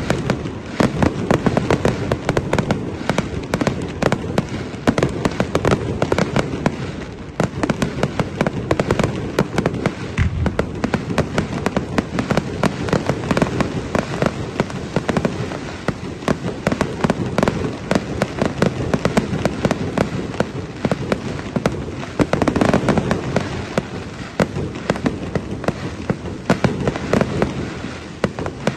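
Fireworks display: many bangs and crackles a second, overlapping without a break, easing slightly near the end.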